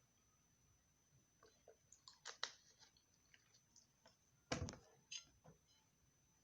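Faint close-miked mouth sounds of eating: wet chewing and lip smacking in scattered short clicks, with one louder smack about four and a half seconds in.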